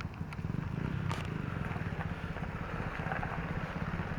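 A small engine idling steadily with an even, rapid low pulse, typical of a motor scooter running at the show.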